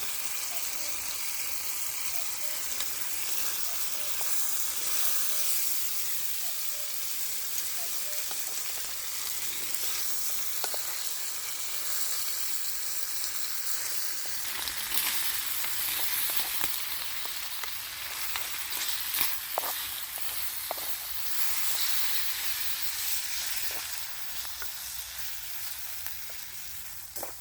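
Food frying over a campfire: a steady sizzle with scattered crackles and pops that grow more frequent in the second half.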